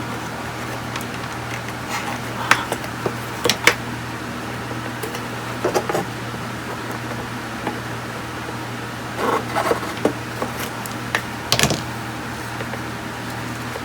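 Scattered short clicks, taps and scrapes of small tools and parts being handled on a workbench, over a steady low hum.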